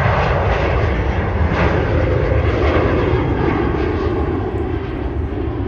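Jet airliner passing low overhead, a loud engine roar with deep rumble whose pitch slides downward as the aircraft goes past and away.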